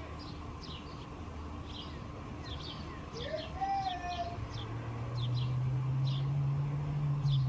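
Small birds chirping, a steady run of short high chirps several times a second. A low steady hum comes in about halfway through and runs under the chirps.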